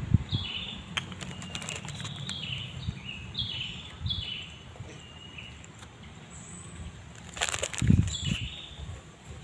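A bird calling, a series of short high notes that slide downward, about two a second, for the first four seconds and again shortly after eight seconds in. A loud crackling rustle comes between them, about seven and a half seconds in.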